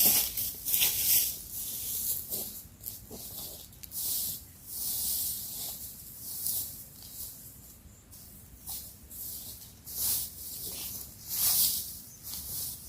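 Irregular rustling swishes, roughly one a second, with brief quieter gaps between them.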